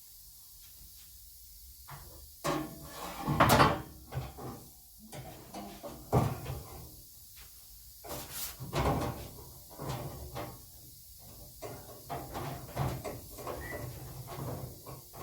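Outer sill panel being offered up and fitted to a car body: irregular clunks, knocks and scrapes of sheet metal, the loudest about three and a half seconds in.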